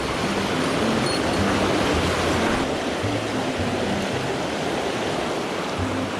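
Mountain stream rushing over rocks in a steady, loud wash, with background music's low notes stepping along underneath.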